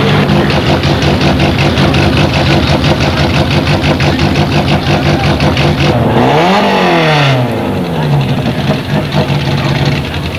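Rally car engine idling with a fast, even pulse. About six seconds in it is blipped once, the pitch rising and falling back within about two seconds, before it settles to idle again.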